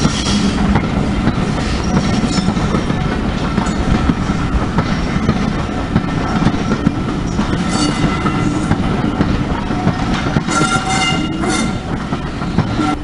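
Heritage railway passenger coaches rolling past at a level crossing, their wheels clattering rhythmically over the rail joints.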